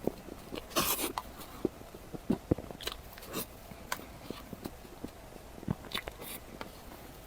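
Close-miked eating sounds: biting and chewing with scattered crunches and wet mouth clicks. The loudest crunchy bite comes about a second in.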